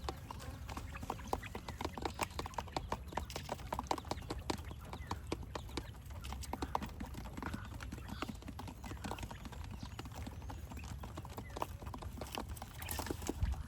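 Quail pecking at feed: many rapid, irregular taps and clicks, densest in the first few seconds and thinning out later, over a steady low hum.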